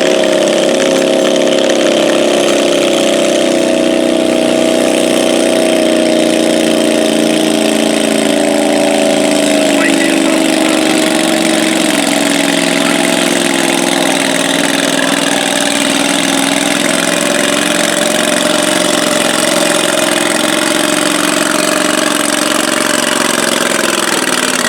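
Stock Cub Cadet garden tractor engine running hard under load as it drags a stoneboat in a pull, a steady note that sags slightly in pitch over the run.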